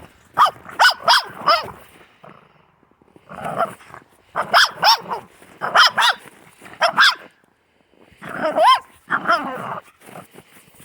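A dog barking loudly in four runs of three or four quick barks, with short pauses between the runs.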